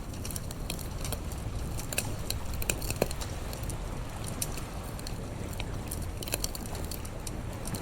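Campfire crackling, with irregular sharp snaps and pops, over a steady low rumble.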